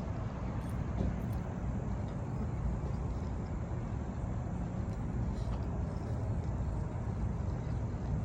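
Steady low rumble of outdoor background noise, like distant road traffic.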